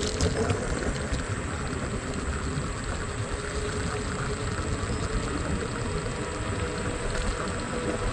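A scooter riding through traffic: steady engine hum over a constant low road rumble.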